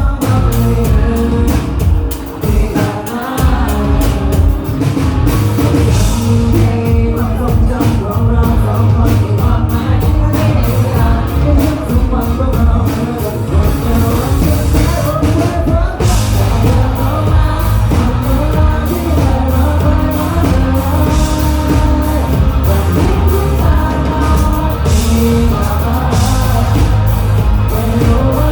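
Live rock band playing a song with singing, drum kit, bass and guitar, loud and steady throughout.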